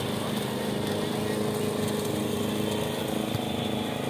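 Small engine of a grass-cutting machine running steadily at an even pitch.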